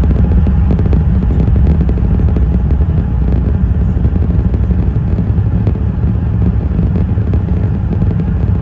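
Loud steady low rumble inside an Airbus A380-861's passenger cabin, with faint light rattling throughout.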